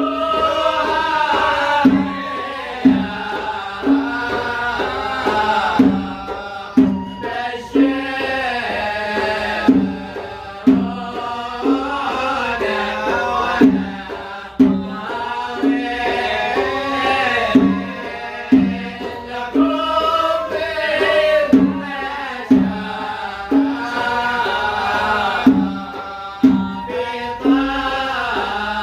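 Live Yemeni (Hadrami) wedding band music: a melody with bending, ornamented lines carried over hand drums beating a steady rhythm.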